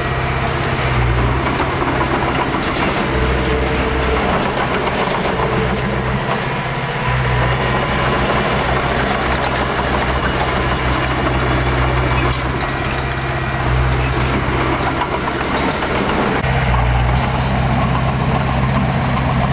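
Diesel engine of a small bulldozer running, a steady low hum that grows louder and quieter several times.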